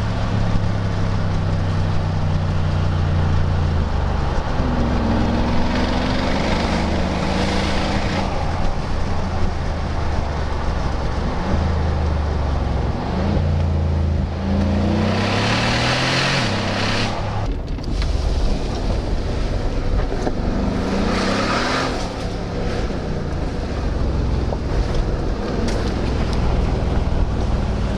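Mercedes G63 AMG twin-turbo V8 running through custom side-exit exhaust pipes, its note climbing and dropping several times.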